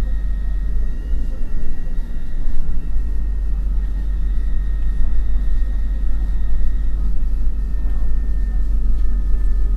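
MAN NL 253 Hybrid city bus under way, heard on board: a deep steady rumble with a thin high whine held almost level, sinking slightly near the end.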